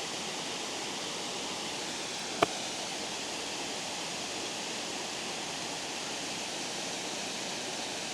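Steady rushing of water pouring over a spillway. A single sharp click about two and a half seconds in.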